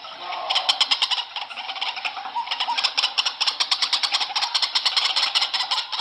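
White-breasted waterhen calling: a fast, harsh pulsing chatter of about ten notes a second, the recorded ruak-ruak call used as a lure.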